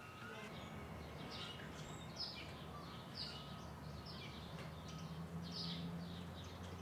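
Small birds chirping: a run of short, high, falling chirps repeated every half second or so, over a low steady background hum.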